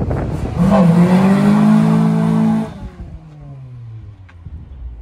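A car engine revving hard as the car accelerates away. The note climbs about half a second in and holds high for about two seconds, then drops in pitch and fades as the car drives off.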